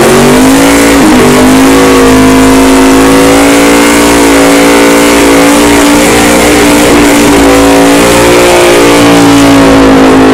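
Car engine held at high revs during a burnout, very loud and steady. The revs dip briefly about a second in and begin to fall near the end.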